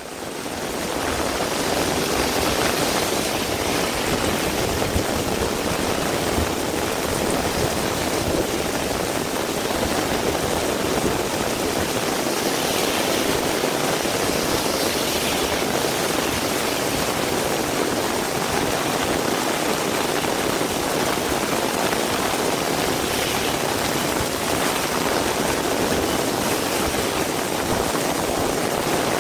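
Heavy rain falling in a steady downpour, fading in over the first two seconds.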